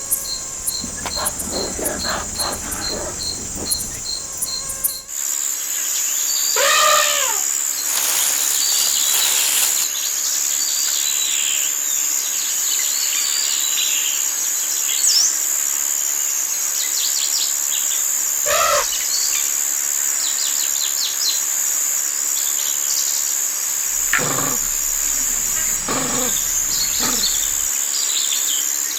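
Jungle ambience: a steady, high-pitched insect chorus with scattered bird calls, including several swooping calls that fall in pitch. About five seconds in, the scene changes: a rhythmic insect ticking gives way to a denser, continuous insect drone.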